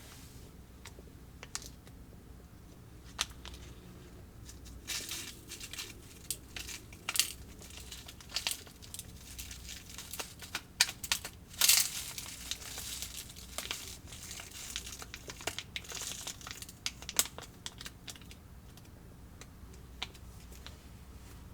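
Plastic snack packaging being handled, crinkling irregularly with sharp crackles and clicks, busiest and loudest around the middle.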